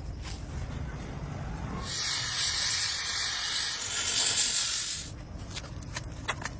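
A steady hiss lasting about three seconds, like a burst of spray or escaping air, followed by a few light clicks.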